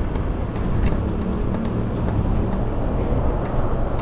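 Steady low wind rumble on the microphone and road-traffic noise heard while riding an electric bicycle, with a motor vehicle running close by.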